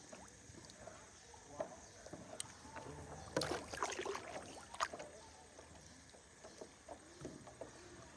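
Water splashing with scattered knocks and clatter, busiest from about three to five seconds in.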